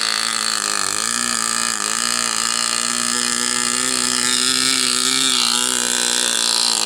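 Enya 15-III two-stroke glow model aircraft engine running steadily at high revs on a test stand, its pitch dipping briefly twice near the start and then holding steady, with the needle valve leaned slightly.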